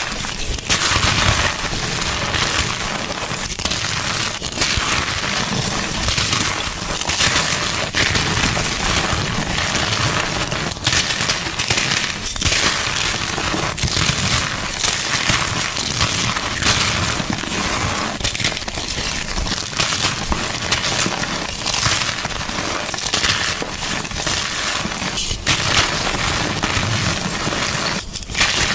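Gym chalk being crushed: a dense, continuous crunching and crackling as the chalk breaks up.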